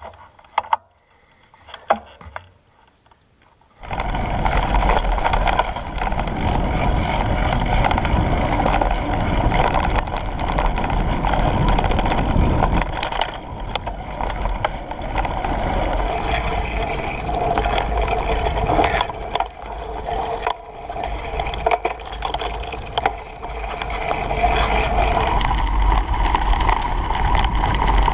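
Riding a bicycle with wind buffeting the microphone: a steady rushing rumble that starts suddenly about four seconds in, after a few light clicks.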